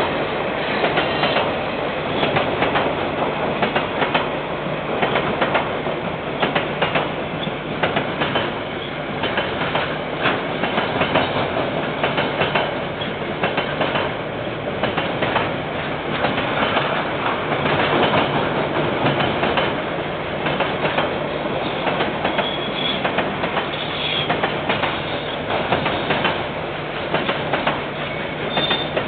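KiwiRail train wagons rolling past, the wheels clicking steadily over the rail joints in a continuous clickety-clack. A brief high-pitched squeal comes in twice in the last third.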